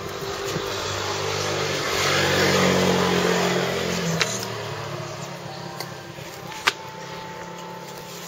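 A motor vehicle passing by: its engine and tyre noise build, peak about two to three seconds in, then fade away. A sharp click about six and a half seconds in.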